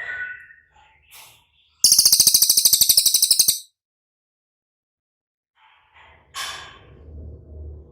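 Cililin bird singing: a loud, very high, rapid trill lasting nearly two seconds, with softer chirps before and after it. A low rumble comes in near the end.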